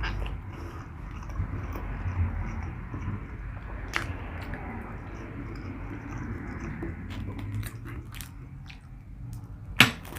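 A person chewing food close to the microphone, with wet mouth sounds and a few sharp clicks; the loudest click comes near the end.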